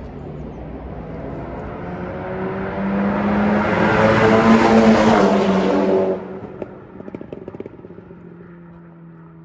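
Turbocharged Audi running a decat downpipe, revving up to a loud peak and then dropping off sharply about six seconds in, with a short spell of crackles and pops before it settles to a quieter steady drone. The raw, loud exhaust note comes from the catalytic converter having been removed.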